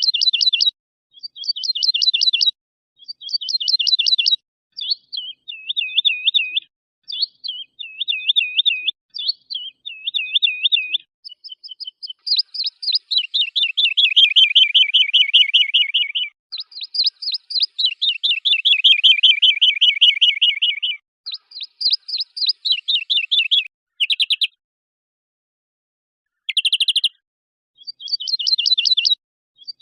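Edited songbird training recording: phrases of fast, high, repeated trills and chattering notes spliced one after another, with dead silence between them. Two longer rolling trills come in the middle, then a gap with two short bursts near the end before the trills resume.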